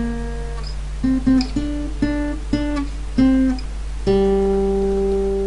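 Instrumental song ending on acoustic guitar: single plucked notes, then a final chord about four seconds in that is left to ring and starts to fade.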